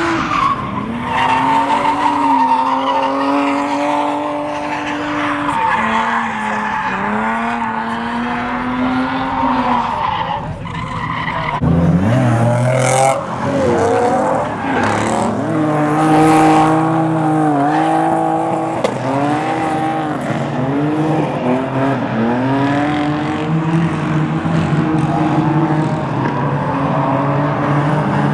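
Cars drifting: engines revving hard, their pitch rising and dipping over and over, with tyres squealing and skidding. Louder revving comes in about twelve seconds in.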